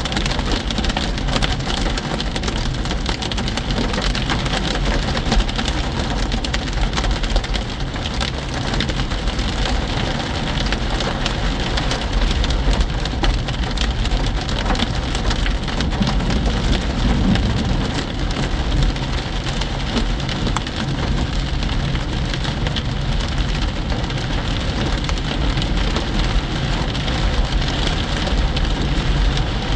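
Hail and rain pelting a car's roof and windshield: a dense, steady clatter of countless small impacts, with the low rumble of road noise underneath.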